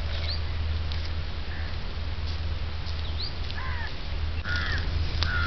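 Birds calling outdoors, with crow-like caws: a handful of short, separate calls scattered through, over a steady low hum.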